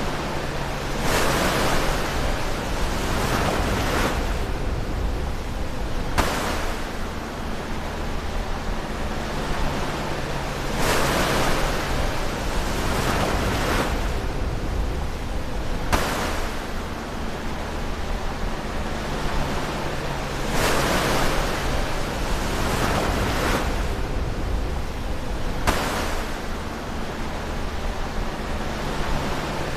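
Ocean waves breaking close to the shore: a surge of surf about every five seconds over a steady low rumble of water.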